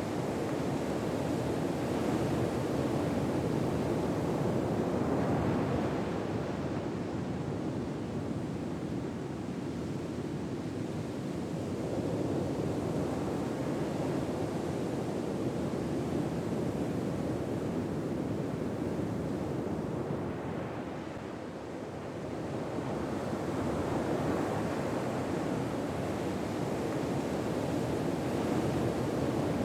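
Ocean waves: a steady rush of surf that slowly swells and eases, with a lull a little past two-thirds of the way through.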